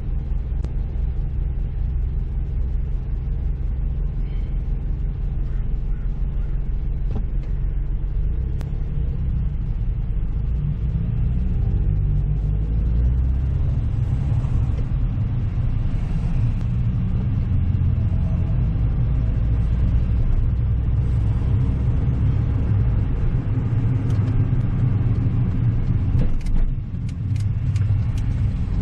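Car driving: steady low engine and road rumble. Near the end it briefly drops, then a few sharp ticks follow, likely the turn signal as the car turns left.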